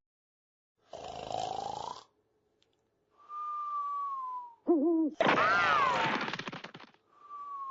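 A person snoring, alternating rasping snores of wavering pitch with a thin whistle that slides slightly downward on the breath out. There are two snores, the second louder, and two whistles, each cut off by dead silence.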